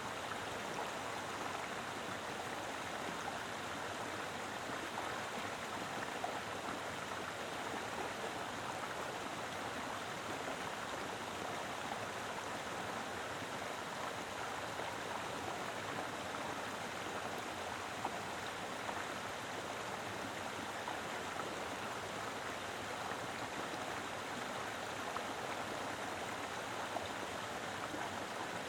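Mountain river flowing steadily over rocks, an even rushing of water with small splashes and gurgles.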